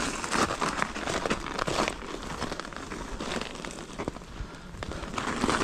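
Electric mountain bike tyres rolling over snow, giving an irregular crunching and crackling.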